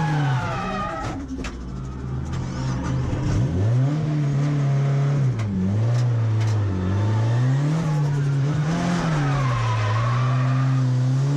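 Drift car engine revving hard, its pitch rising and falling again and again as the throttle is worked, with tyres squealing as the car slides.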